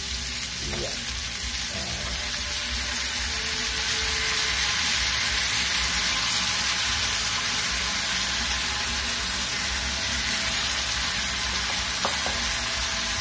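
Hot oil sizzling steadily under lima beans (kratok) frying in a small frying pan, while chili-tomato sambal is scraped into the pan. The sizzle grows a little louder a few seconds in.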